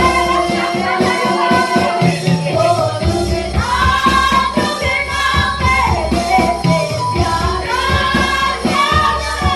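Hindi worship song sung over a backing band with a strong bass and a tambourine shaking along.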